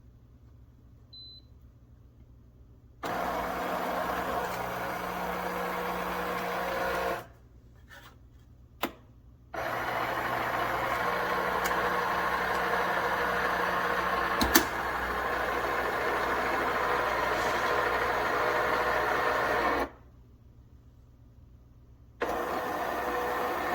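De'Longhi TrueBrew coffee maker running its motor in stop-start stretches: a steady mechanical run of about four seconds, a pause with a single click, a longer run of about ten seconds, then it starts again near the end.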